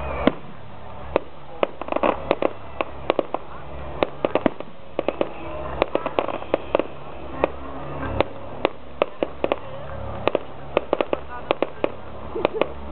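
Fireworks display: aerial shells bursting with an irregular string of sharp bangs and pops, several of them bunched into quick rattling clusters.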